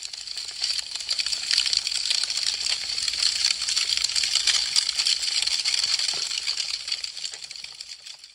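Wood fire crackling, a dense run of sharp pops and snaps over a steady hiss. It swells in over the first second and fades away near the end.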